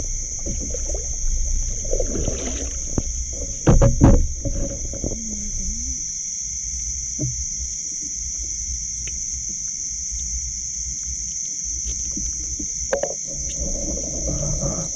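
Steady high-pitched chorus of evening insects, with low rumbling handling noise and two loud knocks about four seconds in.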